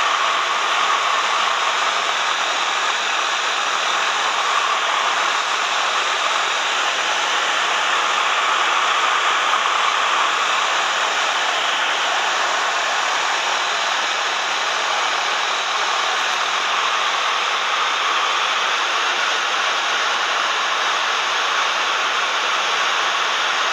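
Steady, even rushing noise inside the cabin of a Cessna 172M with its engine and propeller running, loud and unchanging throughout.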